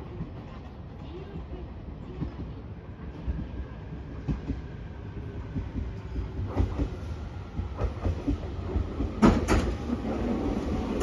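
JR Kyushu 815 series two-car electric multiple unit running into the station, growing louder as it comes in, its wheels clicking over rail joints with the sharpest clicks about nine seconds in. A whine comes in near the end as it draws alongside.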